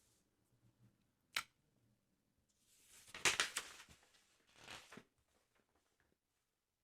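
Paper handling on a football sticker album: a sharp tap about a second and a half in, then two crinkly paper rustles, the first longer and louder.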